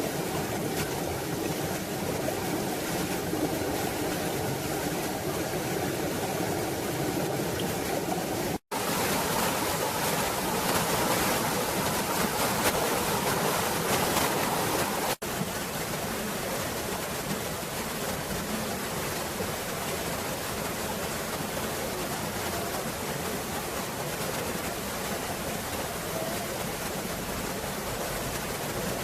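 Steady rush of a mountain valley stream, cut off sharply twice, about nine and fifteen seconds in, with the rush a little louder and brighter between the two cuts.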